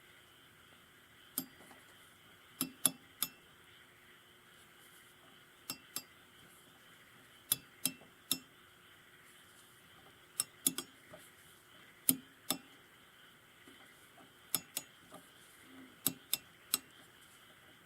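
Small metal carburetor parts and hand tools clinking and clicking as they are handled and set down: irregular sharp clicks, some in quick pairs.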